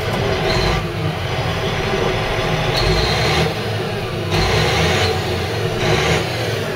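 Caterpillar 980G wheel loader's diesel engine running steadily, with several short stretches of hiss that come and go as the bucket is worked.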